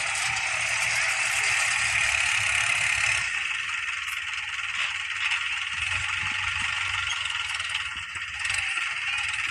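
Indo Farm 3065 tractor running steadily, its engine rumble mixed with a continuous mechanical rattle; the rattle's upper hiss drops away about three seconds in.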